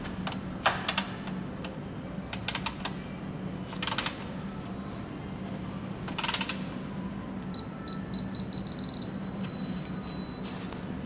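Scattered sharp metallic clicks from hand tools working the suspension bolts, over a steady low hum.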